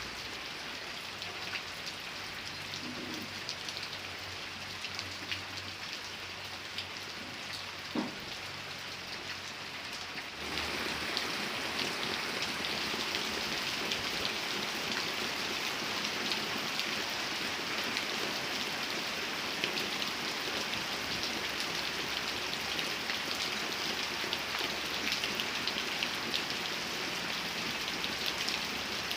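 Steady rain falling, with fine drop ticks throughout. About ten seconds in it abruptly becomes louder and fuller.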